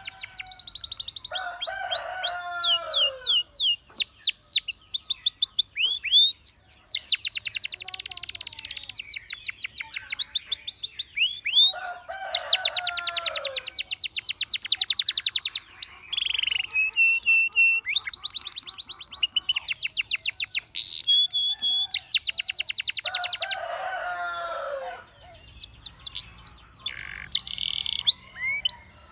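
Domestic canary singing: fast trills and rolls of rapidly repeated high notes, broken by quick rising and falling whistles. A lower, harsher descending phrase comes in three times, about 2, 12 and 23 seconds in.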